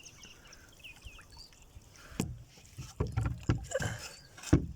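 A small rowboat being worked on the water: a quiet start, then from about two seconds in irregular wooden knocks and low thumps against the hull.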